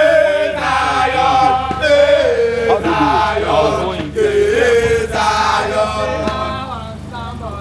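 Voices singing a chanted song, with long held notes that bend up and down, over a low steady hum.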